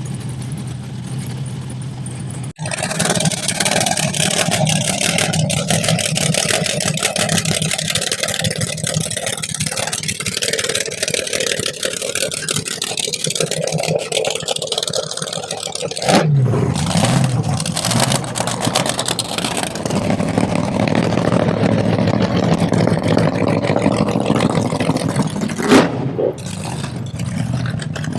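Loud modified G-Body car's V8 engine running with a rapid, choppy popping exhaust that sounds like popcorn cooking. The engine jumps to full loudness about two and a half seconds in. A rev falls away about midway, and there is a sharp loud blip near the end.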